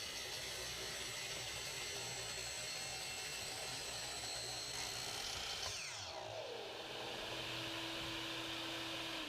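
Miter saw running with a shop vac drawing from its dust port. About six seconds in, the saw's motor whine falls away as the blade spins down, leaving the shop vac's steady hum, which starts to wind down right at the end.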